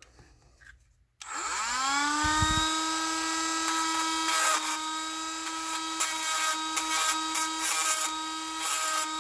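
Cordless Dremel rotary tool with a grinding stone spinning up about a second in to a steady high whine, with uneven grinding noise as the stone works the injector, cleaning off the last of the cap.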